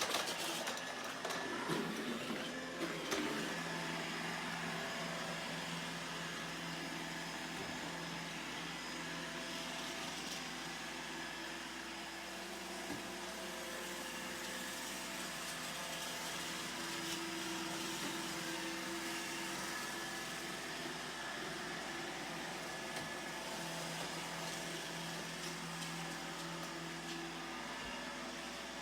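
iRobot Roomba E5 robot vacuum running: a steady whir of its suction fan and brushes, with a few knocks in the first three seconds.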